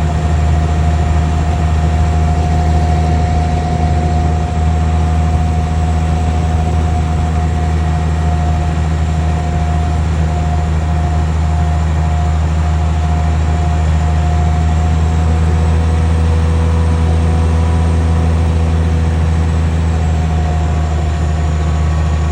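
Jet engines of a Boeing 777-300ER (GE90 turbofans) running: a steady low rumble with a steady whine above it, holding level throughout.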